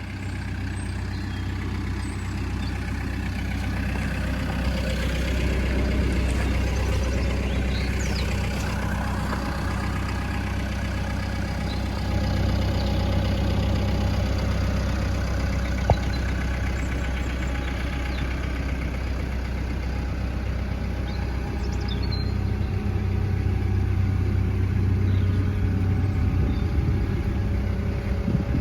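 Caterpillar D3 bulldozer's diesel engine running steadily, with one sharp click about halfway through.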